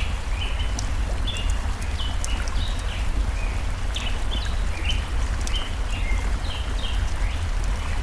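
Birds singing in quick short chirps, with sharp crackles from a wood fire, over a steady low rush of flowing stream water.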